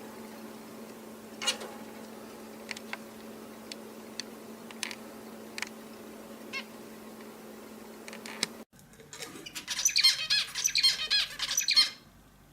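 A hint bülbülü (Indian bulbul) sings a fast, loud run of chirping notes for about two and a half seconds near the end. Before it there is a steady low hum with a few scattered clicks, which stops abruptly.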